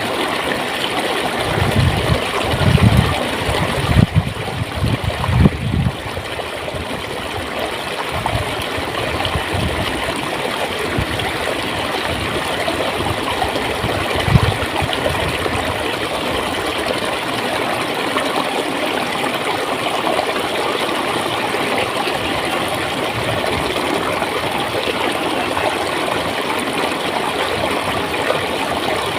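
Clear stream water flowing and gurgling steadily. Several low thumps come in the first few seconds, and one more about halfway through.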